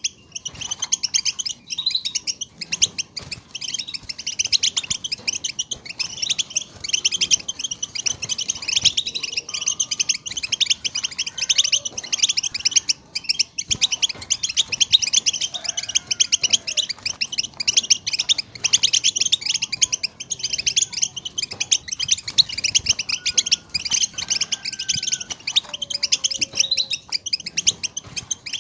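A group of European goldfinches twittering together in a dense, continuous stream of rapid high chattering notes. This is the chorus chatter that keepers play to stimulate caged goldfinches to sing.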